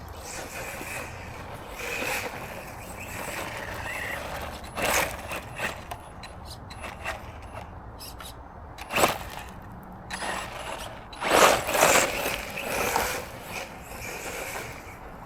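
Small brushless RC monster truck (Arrma Granite Grom) driving, its electric motor and drivetrain whining in a series of short bursts of throttle, the loudest run of them late in the clip.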